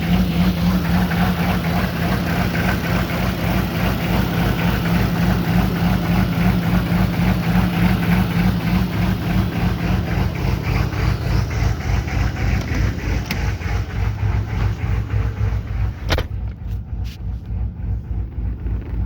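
GMC's 6.5-litre V8 turbo diesel running with a rhythmic loping pulse from its aftermarket lope tune. About sixteen seconds in there is a sharp knock, and after it the engine sounds quieter and duller.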